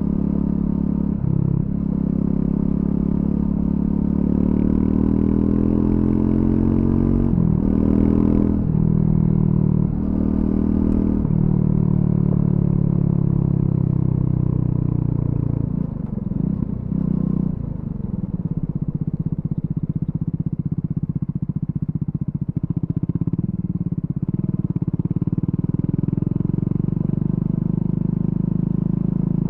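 Triumph Scrambler 400X's single-cylinder engine through its stock exhaust, ridden hard. Engine speed climbs, with several quick breaks about a third of the way in, as from gear changes. It then eases off, dips briefly, and settles into a steady run.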